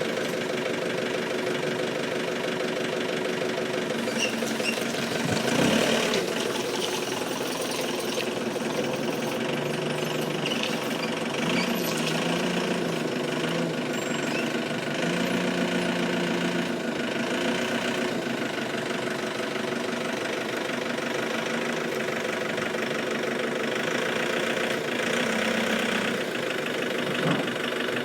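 Forklift engine running steadily, its pitch changing in the middle stretch as it works, with a few short knocks.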